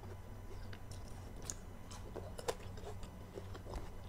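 A person chewing grapes close to the microphone: soft wet mouth clicks and squelches, with one sharper click about two and a half seconds in.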